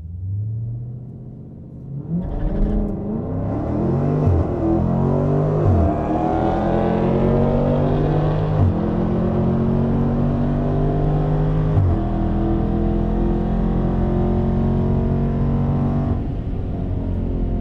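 Dodge Challenger Scat Pack's 6.4-litre HEMI V8, heard from inside the cabin at full throttle on a drag-strip pass. After a short rev, the car launches about two seconds in, and the engine note climbs and drops back with each of several upshifts. About sixteen seconds in the throttle eases off at the end of the run.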